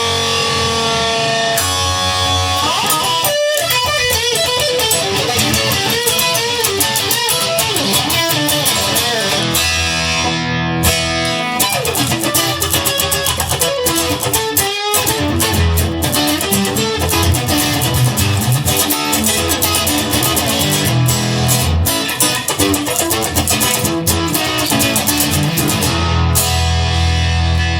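Instrumental break of a blues-rock song: electric guitar playing busy lines with bent notes over a bass line, with no singing.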